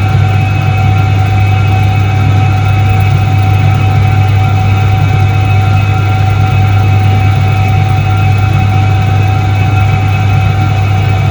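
1978 Soviet Iset-3 washing machine running: a steady, loud low motor hum with fainter steady higher whining tones above it, unchanging throughout.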